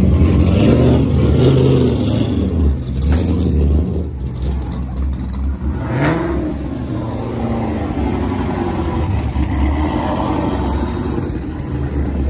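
Car engines running and revving, a heavy low rumble with the revs rising and falling, one climbing rev about six seconds in.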